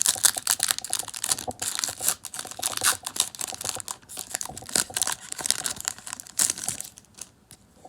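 Foil wrapper of a Pokémon booster pack being torn open and crinkled by hand: dense crackling and crinkling that dies down about seven seconds in.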